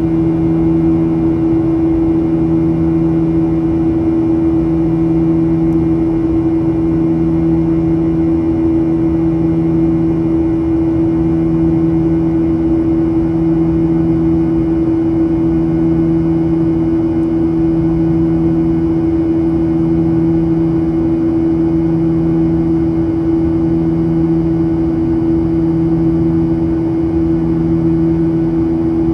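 Steady drone inside the cabin of a Boeing 737-800 airliner: the hum of its CFM56-7B turbofan engines and the airflow, with steady low tones and no change in power.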